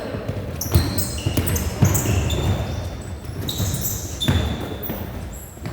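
Basketball bouncing on an indoor court floor: several irregular thuds, with short high sneaker squeaks from players moving on the hardwood.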